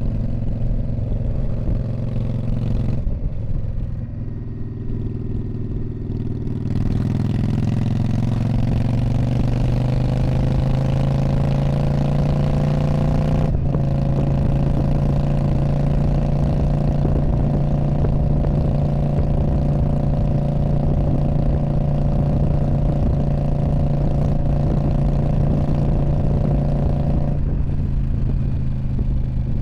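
2019 Indian Scout Bobber's V-twin engine running through a Freedom Performance Radical Radius exhaust. The note drops about three seconds in, then climbs steadily under acceleration, breaks off sharply and resumes a little lower about halfway through, holds steady for a long stretch, and eases off near the end.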